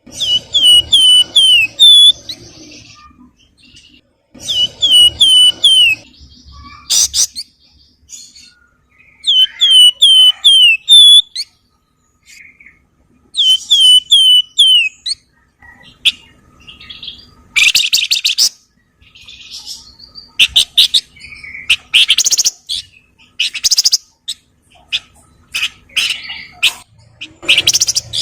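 Javan fulvetta (the caged 'flamboyan' or wergan Jawa) singing loudly. It gives clear whistled phrases of four or five falling notes, repeated every few seconds, then from about halfway switches to rapid, harsh chattering bursts.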